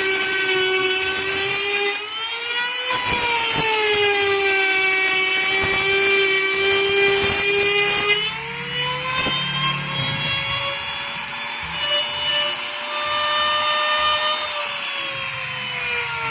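Electric wood trim router whining at high speed as it cuts a circle through plywood. Its pitch sags briefly a couple of seconds in as the bit takes load, then shifts and climbs slowly in the second half.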